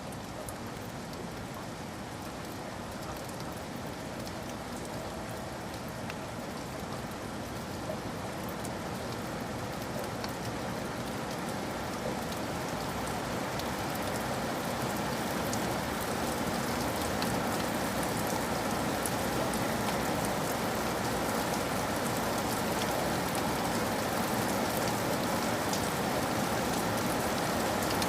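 Steady rain falling, with scattered fine drop ticks, growing gradually louder.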